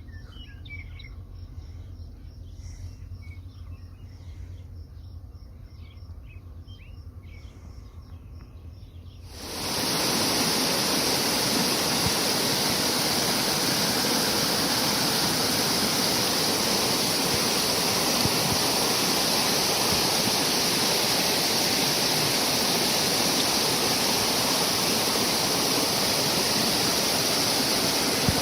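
Scattered bird chirps over a low hum. Then, about a third of the way in, an abrupt cut to a loud, steady rush of water.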